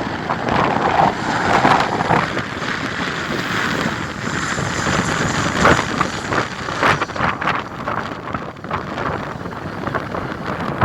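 Strong gusty wind buffeting the microphone, rising and falling with the gusts.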